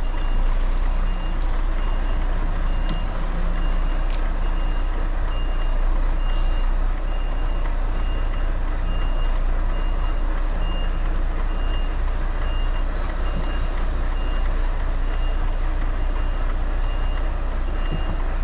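HGV reversing alarm beeping at a steady even pace as the lorry backs up, over the low, steady rumble of its diesel engine.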